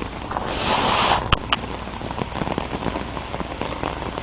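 Steady rain pattering on a surface close to the microphone. About half a second in, a brief rush of noise swells for under a second, followed by two sharp clicks.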